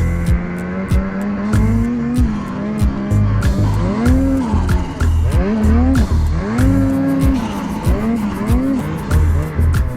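Snowmobile engine revving up and down again and again, over background music with a steady beat.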